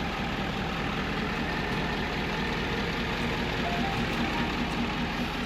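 A 2011 Ford F-350 Super Duty pickup running steadily, a constant engine and vehicle noise with no change in level.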